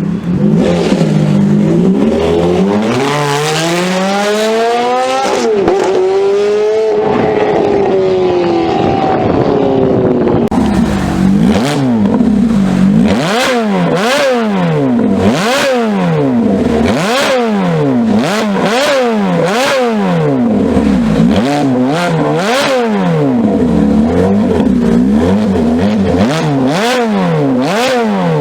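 Ferrari engine revving: a long climb in pitch that then falls away, followed by a run of quick throttle blips, each rev rising and dropping about once a second, with sharp pops between them.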